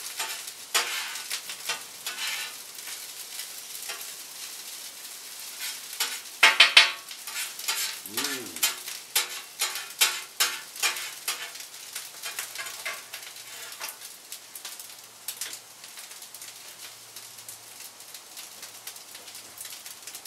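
Food frying and sizzling in a pan while a utensil stirs and scrapes it in quick strokes, the loudest about a third of the way in. The strokes thin out over the second half while the sizzle goes on.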